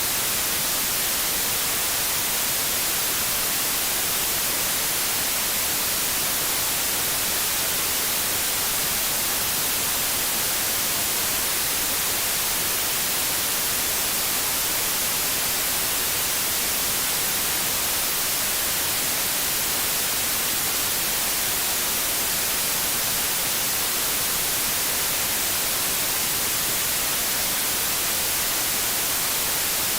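Steady TV static hiss, the white noise of an untuned television, unchanging throughout and strongest in the high frequencies.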